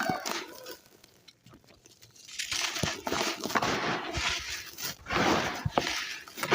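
Dry, gritty red sand clumps crumbled by hand: dense crunchy, grainy crackling that starts about two seconds in after a quiet pause.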